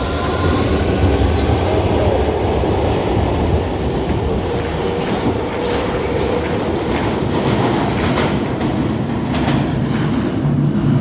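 A train running on the rails: a steady rumble with a run of wheel clicks over the rail joints through the second half.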